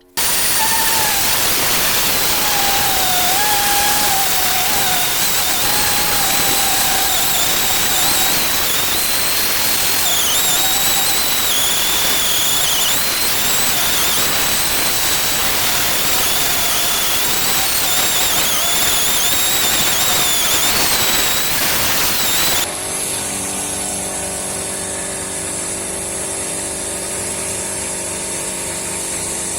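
A power tool running hard, with a loud hiss and a whine whose pitch wavers as it is worked. It starts suddenly, and after about twenty seconds it drops to a slightly quieter, steadier hum.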